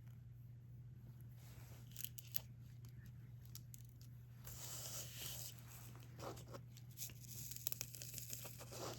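Faint clicks, crinkling and rustling of diamond painting: resin drills being picked up and pressed onto the sticky canvas with a drill pen. There are brief crinkly stretches about halfway through and near the end, over a low steady hum.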